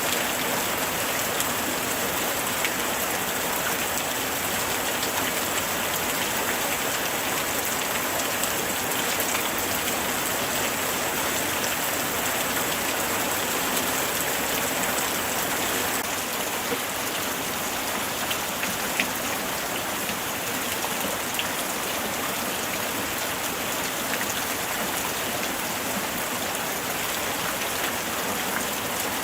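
Steady light rain falling on surfaces, an even hiss with scattered small drop ticks.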